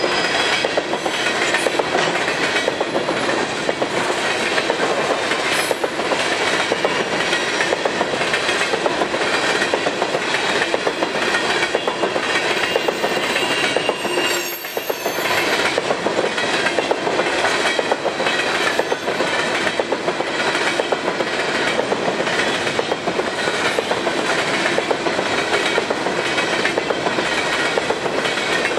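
Empty potash hopper cars of a long freight train rolling past, their wheels clacking steadily over the rail joints. The noise dips briefly about halfway through.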